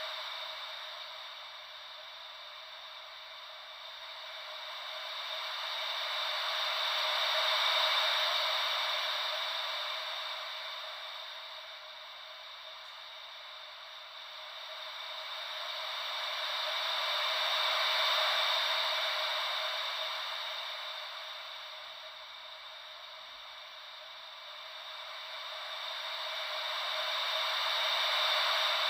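Ocean-wave white noise: a steady hiss with no low rumble that swells and fades smoothly about every ten seconds, like slow waves washing in and out.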